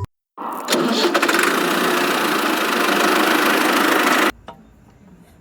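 Engine starting and running steadily for about four seconds, then cutting off abruptly.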